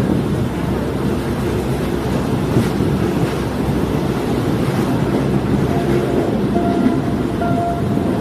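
Diesel multiple unit train running, a steady low rumble of engine and wheels on the rails; from about two-thirds of the way through, a faint thin tone comes and goes over the rumble.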